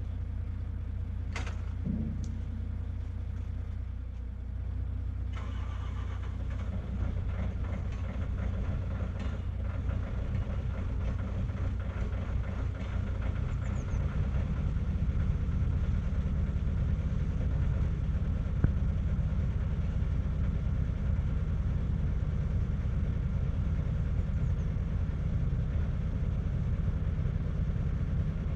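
Truck engine running with a steady low rumble that gets louder about five seconds in and again around fifteen seconds in, with a sharp click about a second in.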